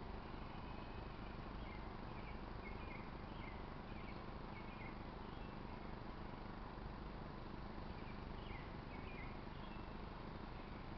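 Faint short chirps from a small animal, repeated about every half second in two runs, the first for a few seconds and a shorter one near the end, over a steady outdoor hiss.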